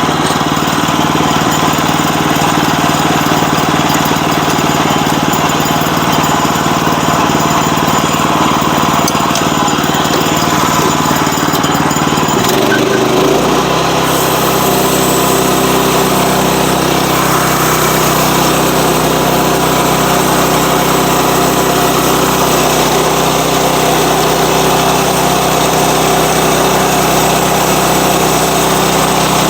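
Sawmill engine running hard, then about halfway through it drops to a lower, steady speed and runs on evenly.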